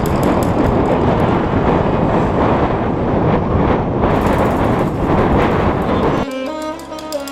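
Heavy wind buffeting the camera microphone during a high-wind speedflying run: a loud, steady rush. About six seconds in it drops away to a brief, quieter sustained chord of several pitches.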